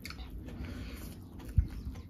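Close-up eating sounds: chewing with small mouth clicks, and a single low thump about one and a half seconds in.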